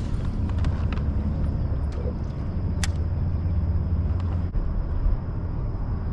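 Wind buffeting the microphone as a steady low rumble, with a few sharp clicks, the loudest about three seconds in.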